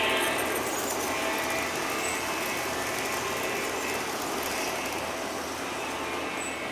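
Model train running along the layout track: steady rolling and motor noise that eases off slightly toward the end.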